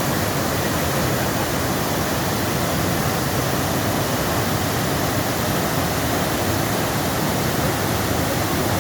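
Waterfall pouring over granite rock close by, a steady, loud rush of falling water.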